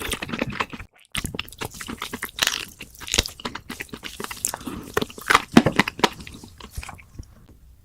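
Close-miked eating: crunchy bites and chewing, a dense run of crackles with a brief break about a second in, dying away about seven seconds in.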